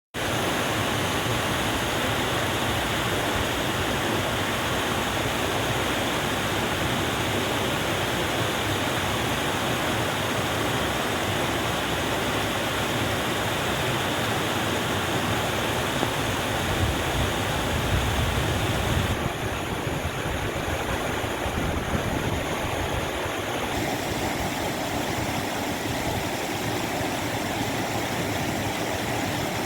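Rushing water, a steady, unbroken hiss like a stream or waterfall. Its tone turns a little duller about two-thirds of the way through.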